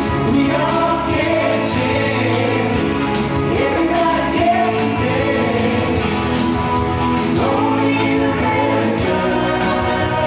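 Music with a group of voices singing together, choir-style, over an instrumental backing.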